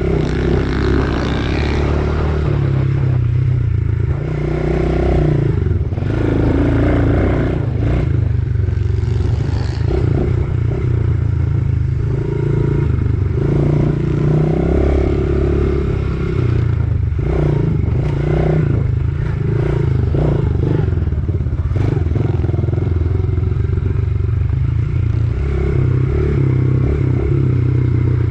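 Small 110cc single-cylinder four-stroke pit bike engine being ridden hard round a dirt track, revving up and dropping back again and again through the corners and gear changes, with scattered knocks and clatter from the bike.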